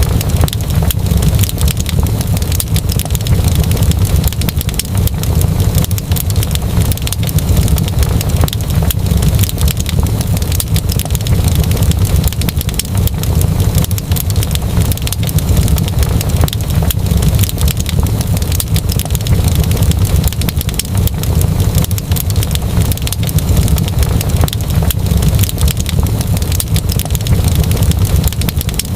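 Wood fire in a fireplace crackling steadily: dense small pops and crackles over a constant low rumble of the flames.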